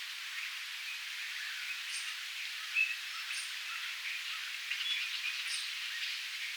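Small birds chirping in short, scattered calls over a steady outdoor hiss, with a slightly louder chirp a little under three seconds in.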